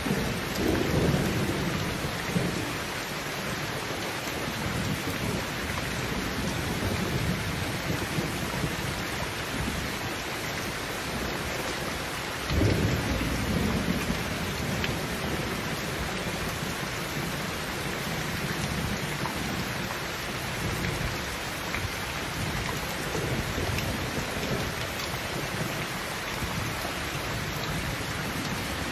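Heavy rain pouring steadily, with low rolls of thunder: one near the start and a sudden louder one about twelve seconds in that fades over a couple of seconds.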